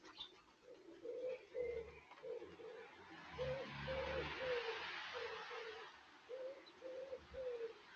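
Pigeon cooing: low coos repeated in phrases of three notes then two. A rushing noise swells and fades through the middle.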